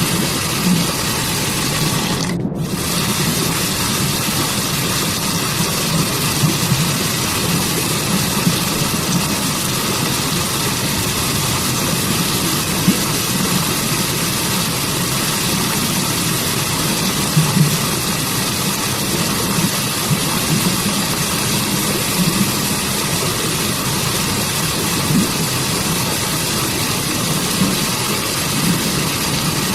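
Rushing water of a waterfall and forest stream, a steady, unbroken rush with no pauses. Its upper part briefly drops out about two seconds in.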